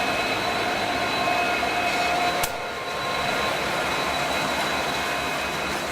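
Freight train cars rolling slowly past, a steady rumble and rattle with faint steady whines, broken by a single sharp click about two and a half seconds in.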